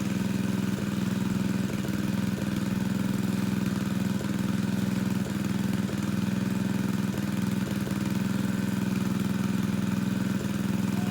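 Engine of a water pump running steadily at a constant speed while pumping a pond down, a continuous even hum.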